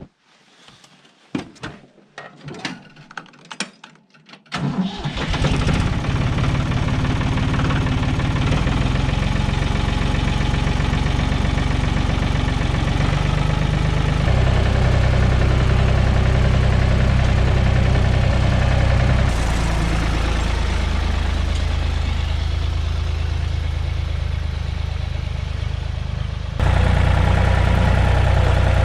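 A few knocks and clicks, then about four and a half seconds in a farm tractor's engine starts and settles into steady running. Its level and pitch shift abruptly a few times.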